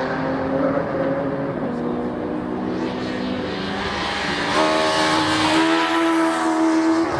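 Racing cars' engines running hard on the circuit. About four and a half seconds in a louder engine comes in, its pitch climbing slightly.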